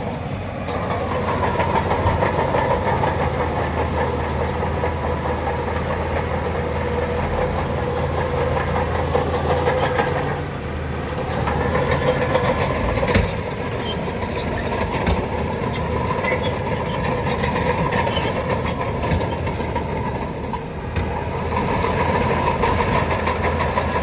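Heavy diesel earthmoving machinery running steadily, its engine note easing off and picking up again twice. One sharp metallic knock about halfway through.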